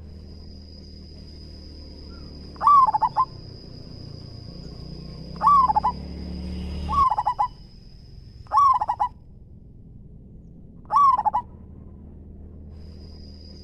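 Zebra dove (perkutut) cooing: five short, rapid rolling coos a few seconds apart, two of them close together near the middle. Behind them a thin steady high tone breaks off about two-thirds of the way in, and a low rumble swells and cuts off suddenly around the middle.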